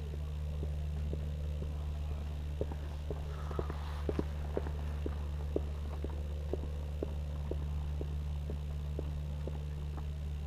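Motorcycle at a steady cruise heard from the bike itself: a constant low engine and road drone that holds one pitch. Light ticks repeat about twice a second over it.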